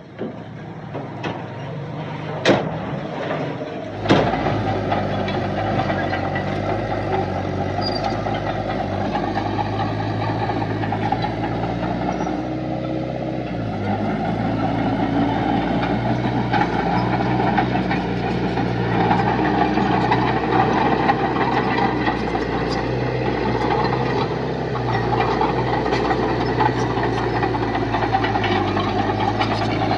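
Diesel engine of a heavy earthmoving machine running steadily. There are two sharp clanks in the first few seconds, and the engine gets louder about four seconds in.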